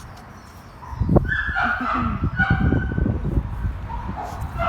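Dogs whining and yelping from about a second in, over a run of low thumps and rustling.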